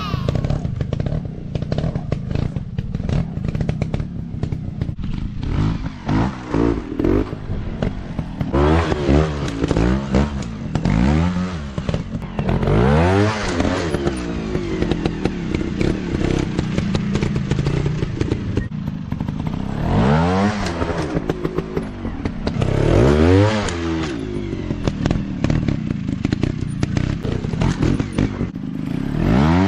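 Small dirt bike engines running over a steady rumble. Repeatedly the revs rise and fall back, about eight times, with clattering and scraping throughout.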